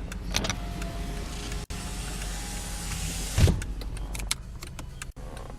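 Low steady hum inside a car, with a few small clicks and a hiss that builds and ends in a single thump about three and a half seconds in.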